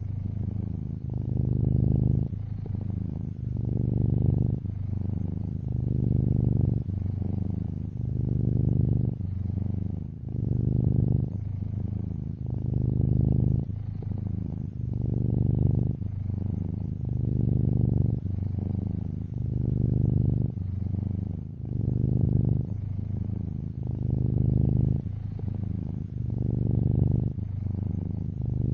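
Black-and-white tuxedo cat purring steadily. The purr swells and fades in a regular cycle about every two seconds as the cat breathes in and out.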